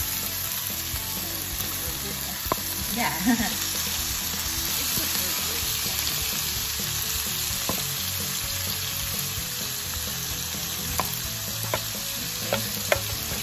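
Sliced onions, garlic and canned corned beef sizzling steadily in oil in a frying pan, with a few sharp clicks scattered through it, more of them near the end.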